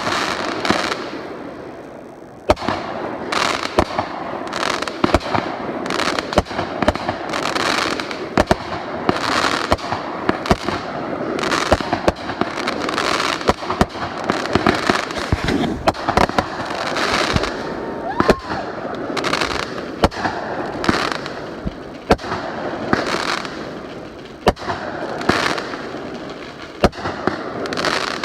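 Aerial fireworks going off in a rapid barrage: sharp bangs one after another, with crackling bursts swelling between them. A brief rising whistle comes about two-thirds of the way through.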